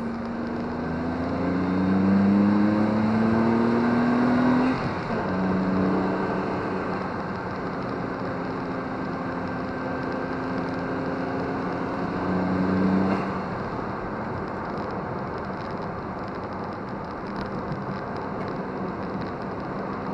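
Honda S660's small turbocharged three-cylinder engine accelerating hard: its pitch climbs, drops at a gear change about five seconds in, then climbs again in third gear towards about 5000 rpm. About thirteen seconds in the engine eases off and the steady hum of tyres and road remains.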